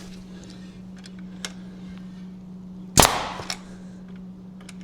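A staple gun fires once about three seconds in, a single sharp, loud snap as it drives a staple into a hard piece of wood, with a few light clicks before and after.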